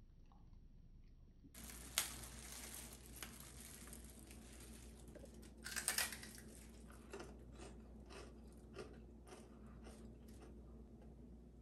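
Mouth sounds of biting and chewing crispy roast pig skin (lechon): a loud crunchy bite about six seconds in, then crackly chewing at about two crunches a second. A single sharp tap comes about two seconds in.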